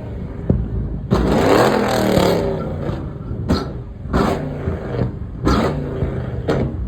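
A car engine revving in repeated short, sharp blips over a low running note, with a longer burst of noise lasting about a second and a half starting about a second in.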